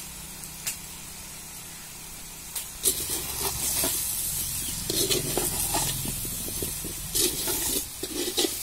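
Boiled sweet potato pieces sizzling in oil in an aluminium pan, a steady low hiss at first. From about three seconds in, a perforated ladle stirs and scrapes them around the pan in uneven strokes.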